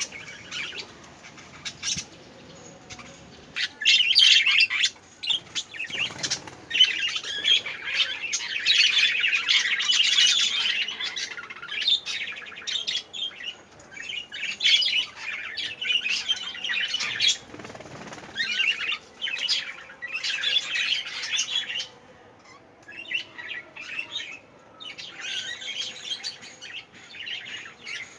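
Budgerigars chirping and chattering in quick, overlapping bursts, loudest in the first half.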